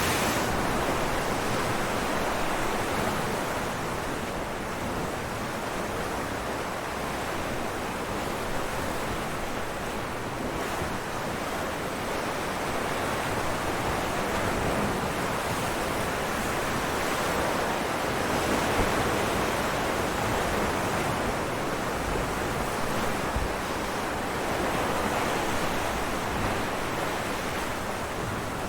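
Ocean waves breaking on rocks, a continuous rushing wash that swells and eases slowly, with a few small splashes.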